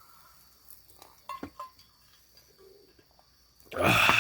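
A few faint clicks, then near the end a loud, long breathy exhale begins: a sigh of satisfaction after a bite of food.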